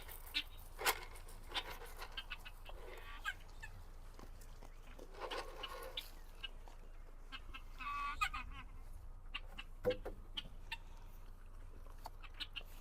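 Ducks calling a few times, one call about five seconds in and a louder one about eight seconds in, over scattered light clicks and knocks.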